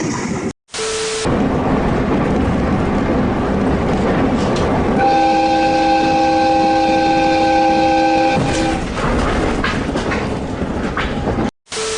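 Train rumbling past, its horn sounding one steady multi-note chord for about three and a half seconds midway through. The audio drops out briefly near the start and again near the end.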